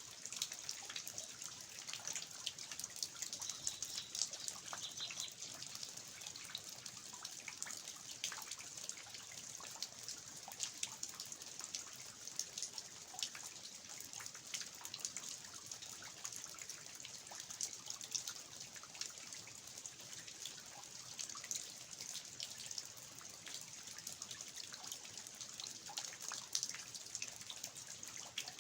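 Rain falling steadily, with water dripping and splashing from the eaves in many irregular drops.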